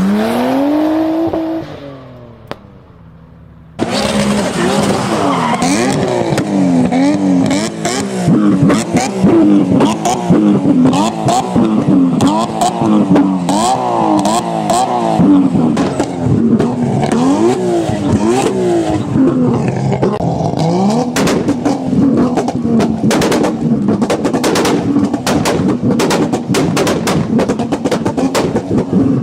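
Tuned performance car engine revving hard. Its pitch climbs and then dies away at first, and after a short lull it cuts back in loud, swinging up and down in pitch about once a second with many sharp pops and crackles.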